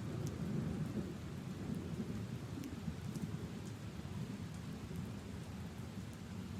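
Steady rain falling on leaves and puddles: a dense low rumble of rain noise with scattered sharp ticks of single drops.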